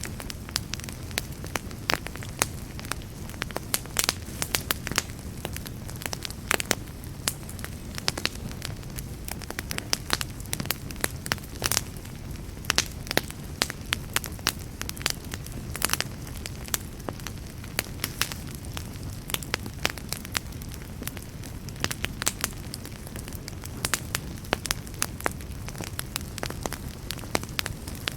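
Wood fire burning with a steady low rush, and irregular sharp crackles and pops several times a second.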